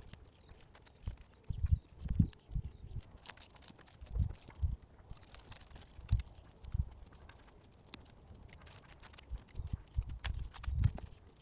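Dry dead strawberry leaves rustling and crackling as they are pulled away by hand, in irregular short crackles with soft low thumps between them.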